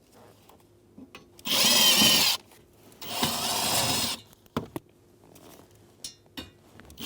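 Cordless drill/driver with a T20 bit running twice for about a second each, backing out mounting screws, followed by a few light clicks.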